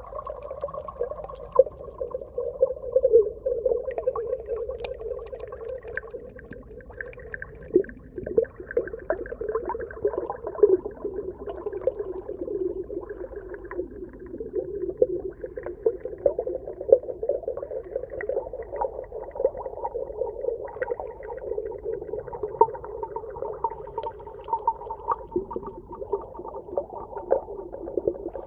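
Underwater ambience: a steady, muffled water sound with many short clicks and pops scattered throughout.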